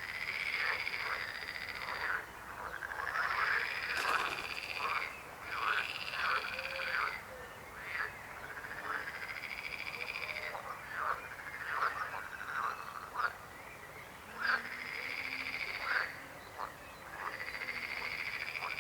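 Frogs croaking in chorus: calls of a second or two, some overlapping, follow one another with short gaps between.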